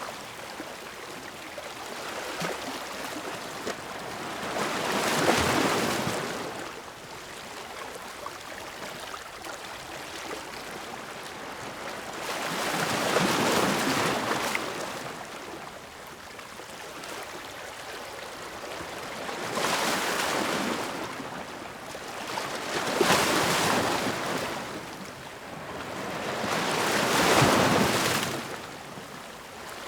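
Ocean waves breaking on the shore, five surging rushes of surf in half a minute, each swelling and then washing back out to a steady hiss between them.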